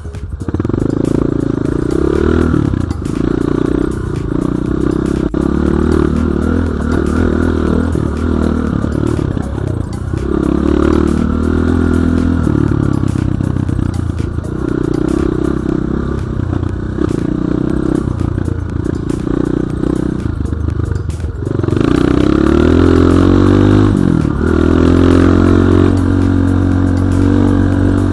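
Enduro dirt bike engine running under throttle as it is ridden, the revs repeatedly rising and falling. It runs louder over the last several seconds.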